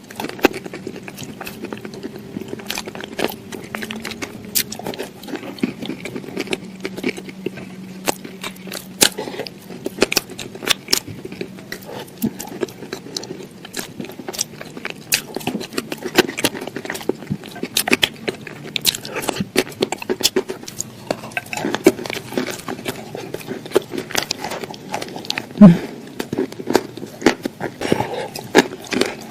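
Close-up crunching and chewing of crunchy food: a dense, irregular run of sharp crackles and clicks over a faint low hum, with one louder crack near the end.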